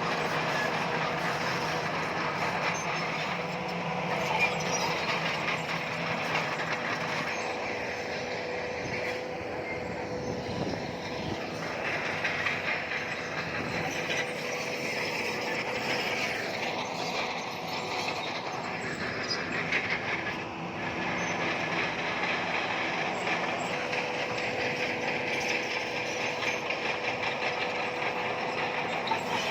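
Crawler bulldozer working: its diesel engine running steadily under load while its steel tracks move.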